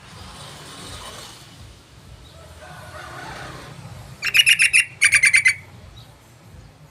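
Yellow-vented bulbul calling: two quick chattering runs of short repeated notes, each about half a second long, coming one after the other about four seconds in.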